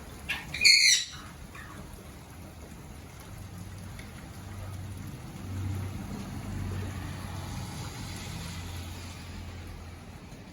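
A pet parrot gives one short, loud squawk about half a second in. Steady rain noise follows, with a low rumble that swells in the middle and fades near the end.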